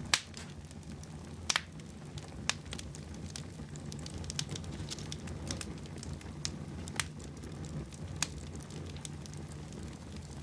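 Fire burning in a fireplace, crackling with irregular sharp pops over a steady low rumble; the loudest pop comes right at the start.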